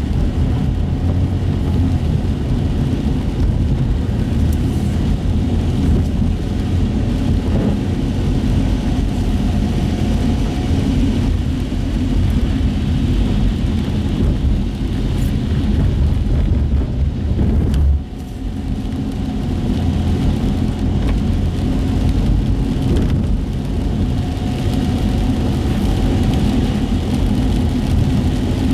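Car cabin sound while driving on wet city streets: a steady low engine and tyre rumble with a hiss from the wet road. About two-thirds of the way through the rumble drops suddenly, then builds back up over a few seconds.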